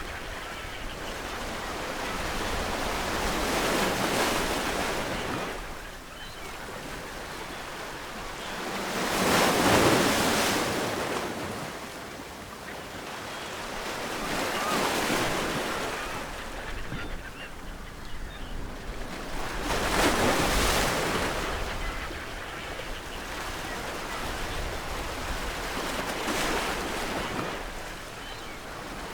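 Ocean waves breaking on a shore, each surge of surf rising and washing back about every five to six seconds.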